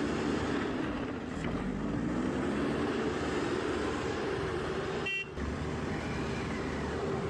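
Motorcycle engine running under way, its pitch dipping and then climbing again about a second in as the rider shifts and accelerates. About five seconds in there is a very short horn beep.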